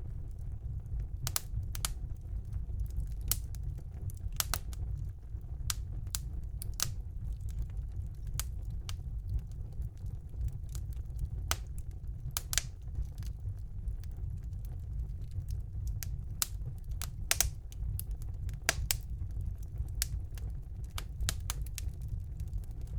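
Wood fire burning in a fireplace, crackling with irregular sharp pops and snaps, a few a second, over a steady low rumble of the flames.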